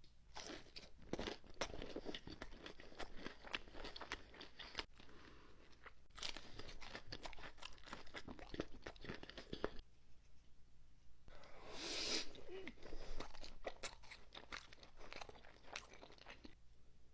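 Close-miked crunchy chewing of food, a dense crackle in two long stretches with a short pause about ten seconds in.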